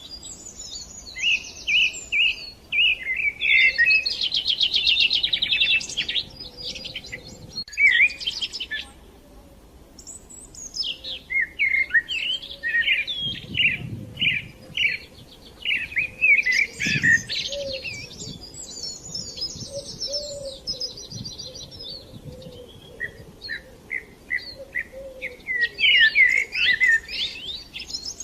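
Several songbirds chirping and trilling: short high calls and fast repeated notes, pausing briefly about nine seconds in and then carrying on.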